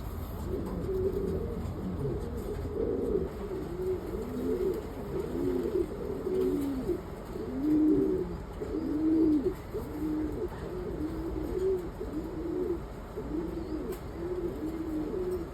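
Domestic pigeons cooing: a steady run of low coos, each rising and falling in pitch, about one a second.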